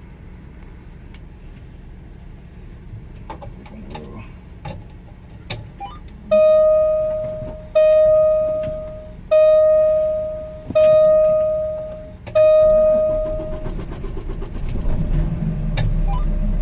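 A vehicle warning chime dings five times, evenly spaced about one and a half seconds apart, each ding fading out. A low engine rumble then comes in near the end and keeps running.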